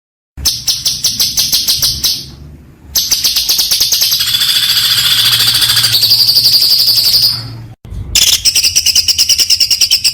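Songbird singing in rapid-fire runs of high, quickly repeated notes, several a second, in three bursts with short breaks between them.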